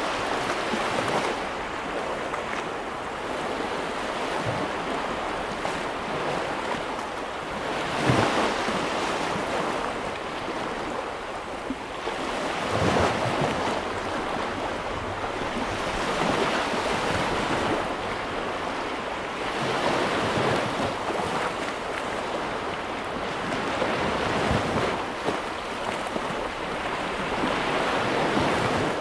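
Sea waves breaking and washing on the shore: a continuous rushing wash that swells every few seconds, the strongest surge about eight seconds in.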